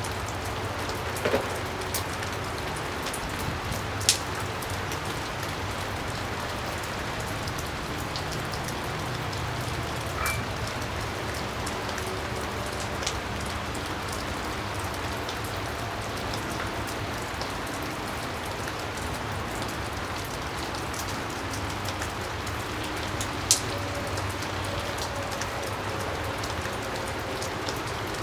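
Steady rain falling, an even hiss, with a few sharp clicks, one about four seconds in and one about five seconds before the end.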